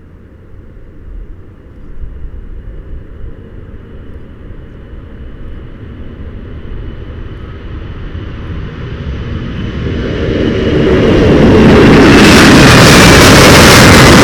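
Boeing 747-400F freighter's four GE CF6 turbofans at takeoff power during the takeoff roll. The rumble builds steadily as the jet approaches and becomes very loud about eleven seconds in. A high fan whine slides down in pitch near the end as it passes.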